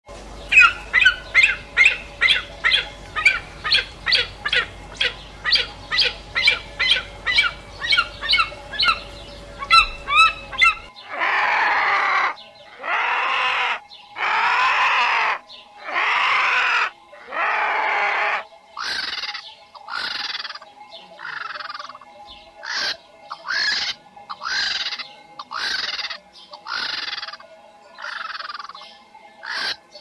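Bird calls in three runs. First come about ten seconds of short, sharp repeated calls, two or three a second. After an abrupt change there are five long, harsh, rasping calls of about a second each. Shorter calls then follow, roughly one a second, many falling in pitch.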